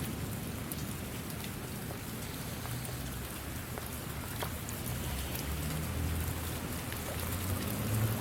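Steady rain falling, an even hiss with scattered individual drops hitting close by. A low rumble swells in the second half.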